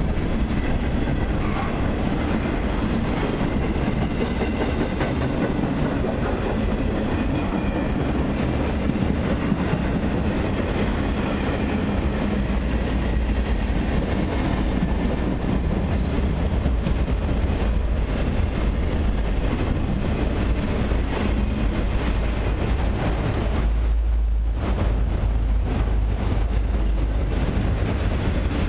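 Freight cars of a long mixed and autorack train rolling past, with steel wheels running steadily on the rails.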